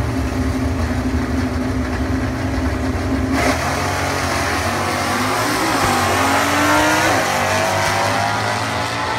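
A car engine running steadily, then about three and a half seconds in a sudden loud surge of hard acceleration, its pitch climbing and dropping.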